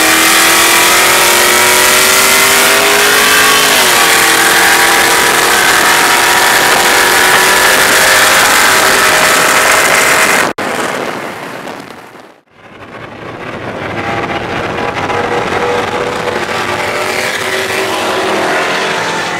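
Car engines at full throttle in a roll race, climbing in pitch with a gear shift about three and a half seconds in, over heavy wind rush. It breaks off abruptly about ten seconds in, then after a brief dip comes back as more hard acceleration rising through the revs.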